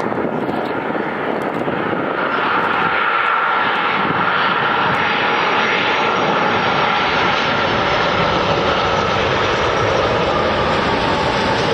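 Airliner engines passing close by: a loud, steady rushing with a faint whine in it, growing slowly louder.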